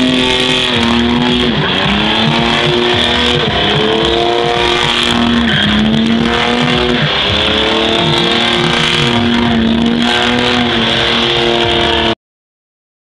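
Car engine running hard at high revs, its pitch dipping and climbing back every second or two, then cutting off abruptly near the end.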